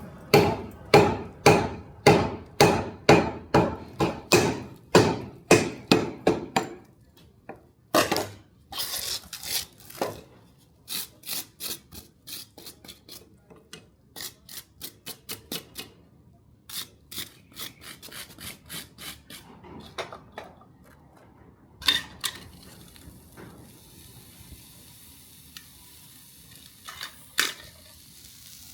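Hand hammer striking metal on an anvil, forging: a steady run of heavy blows at about two a second, then a longer string of lighter blows, and a few single strikes near the end.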